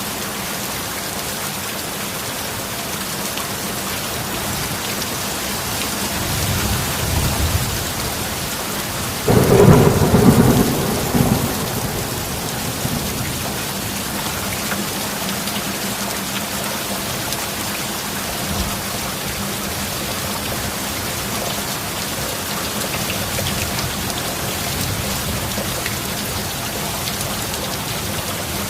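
Steady heavy rain. A low rumble of thunder builds about six seconds in, then a louder thunderclap breaks suddenly a few seconds later and rolls away over about three seconds.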